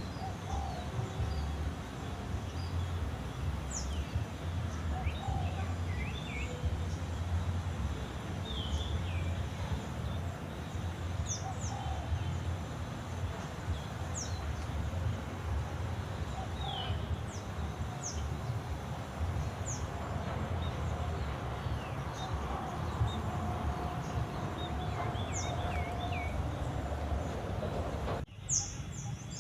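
Songbirds chirping in the trees: short, high, downward-sweeping calls scattered every second or two, over a steady low rumble of outdoor background noise. Near the end the sound briefly drops out.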